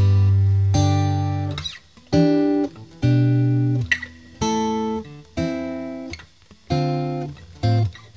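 Background music: plucked acoustic guitar chords, each struck and left to ring and fade before the next.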